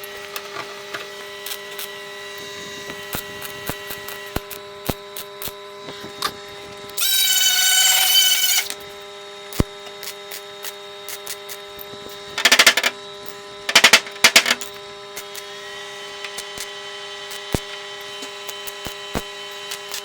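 Metal body-shop work: a steady electrical hum with scattered clicks and taps, a short power-tool whine about seven seconds in, and two brief loud noisy bursts a little past the middle.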